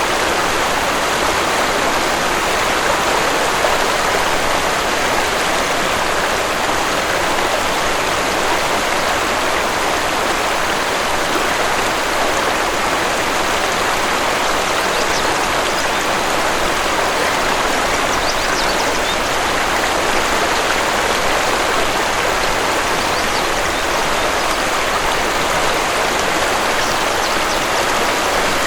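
Steady rushing of a waterfall's falling water, with a couple of faint high bird chirps a little past the middle.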